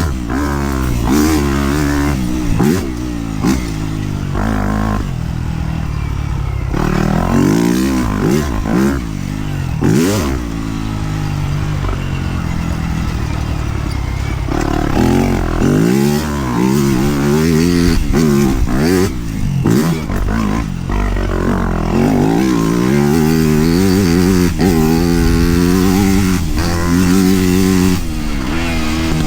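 Dirt bike engine ridden hard on a trail, its pitch rising and falling over and over as the throttle is opened and closed through the gears, with scattered knocks and clatter from the bike over rough ground.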